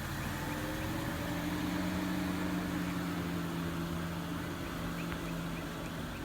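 Car engine running with a steady drone that sinks slightly in pitch over several seconds, over a steady hiss.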